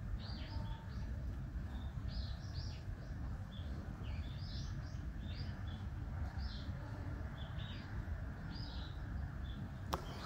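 Small birds chirping in short, repeated calls over a steady low rumble, with one sharp click near the end.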